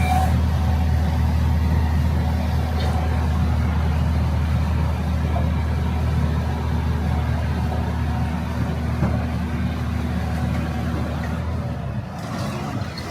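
Truck engine running at a steady idle, a low even drone that stops shortly before the end.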